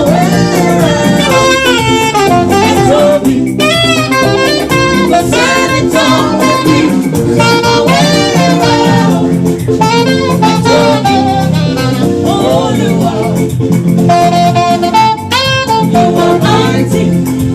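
Saxophone playing a bending, ornamented melody over a live band with a steady bass line and percussion.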